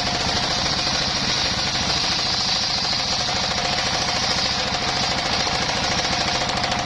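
Portable engine-driven circular sawmill running steadily while sawing bayur timber. The engine gives a fast, even chugging. Over it sit a steady high whine from the spinning blade and a hissing rush from the cut, strongest in the first few seconds.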